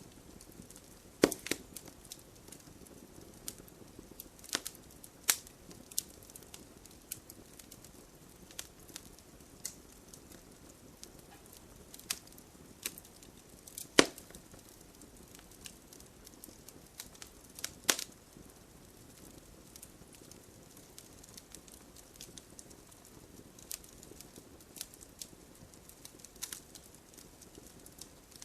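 Wood campfire crackling, with a low steady hiss and irregular sharp pops and snaps, a few of them much louder than the rest.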